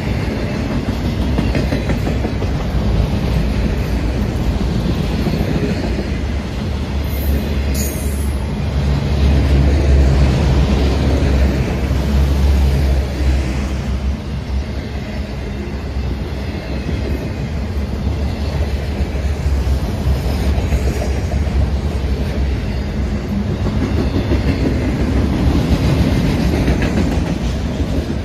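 Freight train of autorack cars rolling past close by: a steady rumble of steel wheels on rail. There is a brief high squeal about eight seconds in.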